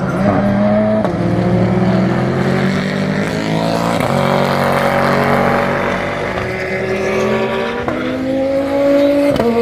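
GT race car engines running hard past the track, pitch climbing steadily through the gears, with upshifts about four seconds in and again near the end.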